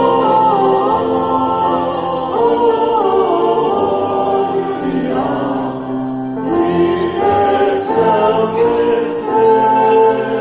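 A choir singing in several voice parts, with long held notes moving in pitch; a new phrase begins about six seconds in.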